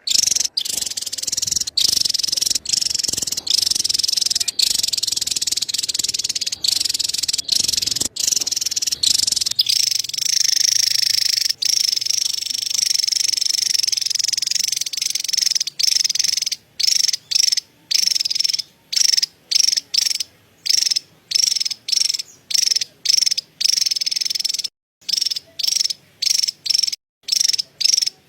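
Javan tesia giving its rapid, high-pitched chattering call, a dense trill that runs almost without a break at first, then is cut by short gaps about twice a second from about halfway through.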